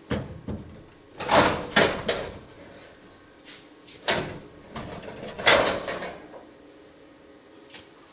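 An irregular series of sharp knocks and clunks, about eight over six seconds, some with a short ring.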